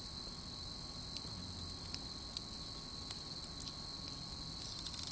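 Crickets chirring in a steady high-pitched drone, with a few sharp pops of a wood campfire crackling.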